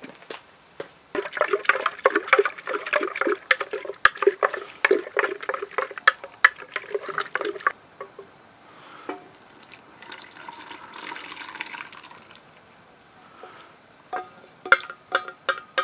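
Yeast, sugar and warm milk being stirred together with a spoon in a bowl: quick liquid sloshing and clicking strokes for about seven seconds, then a softer liquid rush.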